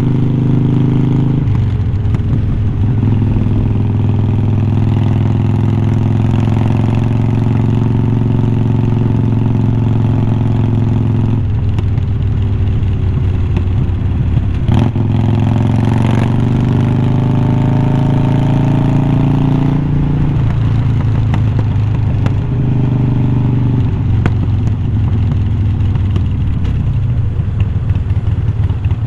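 2020 Harley-Davidson Iron 1200's V-twin running through glass-pack-style slip-on mufflers while under way. The pitch steps up and down several times, a sharp knock comes about fifteen seconds in, and then the pitch rises steadily as the bike accelerates. Near the end the beat turns choppy and uneven.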